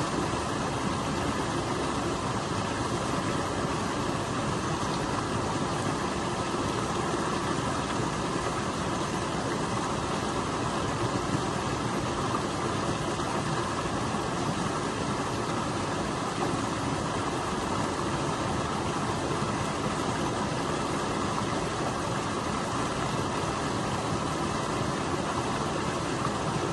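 Stream water rushing steadily over a small waterfall, an even continuous rush.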